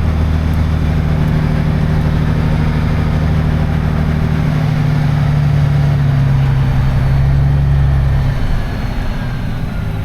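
Semi-truck diesel engine running at a low steady speed, heard from inside the cab; its note changes and drops away about eight seconds in.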